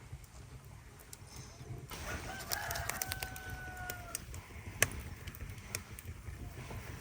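A rooster crowing once, beginning about two seconds in and ending on a long held note. Sharp clicks and knocks are scattered through, one louder knock just after the crow.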